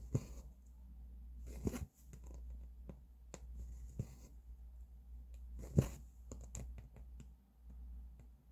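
Needle and thread being pulled through cross-stitch fabric: soft scattered rustles and small clicks, with a few sharper ticks, over a low steady hum.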